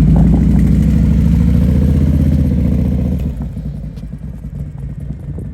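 Harley-Davidson V-twin motorcycle engine running loud and close at low speed, then quietening about three seconds in.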